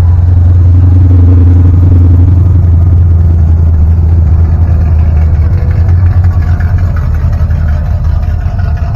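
A car engine's loud, low rumble, steady at first and then fading away over the second half.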